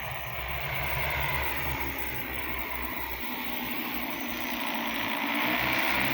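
Crop-spraying aircraft flying over with a steady propeller hum, growing louder about a second in and again near the end as it passes.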